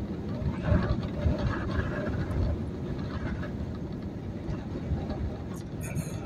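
Road and wind noise inside a truck's cab at highway speed in a strong windstorm: a steady, low rumble that swells and eases as gusts buffet the truck.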